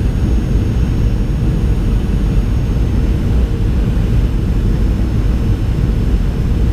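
Boeing 737 cabin noise: a steady, loud low rumble from the engines and airframe, with a faint hum and a thin high whine over it.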